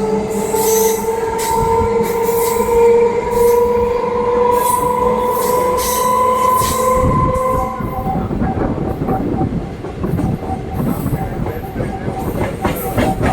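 Electric multiple-unit local train running, with a steady whine that rises slowly in pitch and stops about eight seconds in, followed by rougher rumbling and clicking from the wheels on the track.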